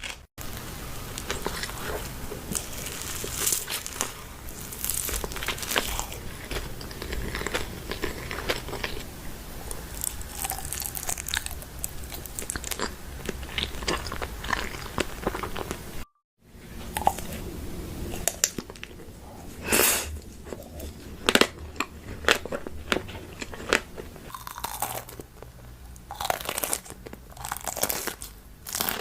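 Close-miked eating: crunchy bites and chewing, many crisp cracks and crackles in quick succession, broken by a brief gap of silence about sixteen seconds in.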